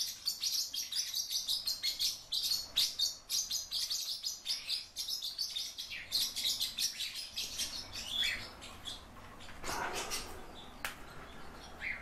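Pet birds chirping: a fast, dense run of short high chirps for about seven seconds, then fainter, scattered calls.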